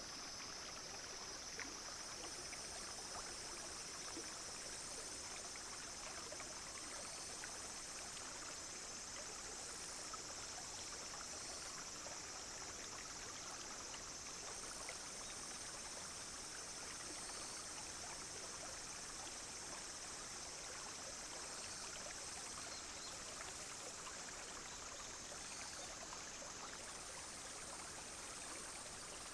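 Clear, shallow stream flowing and trickling steadily over stones, with a continuous high-pitched drone of cicadas and other insects above the water.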